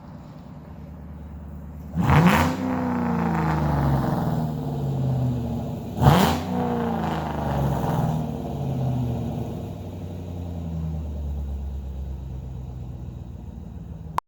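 2004 Ford Mustang Mach 1's 4.6-litre V8 through an SLP Loudmouth 1 cat-back exhaust with an off-road X-pipe, accelerating hard past at close range. Two loud surges come about four seconds apart, then the exhaust note dies away as the car drives off.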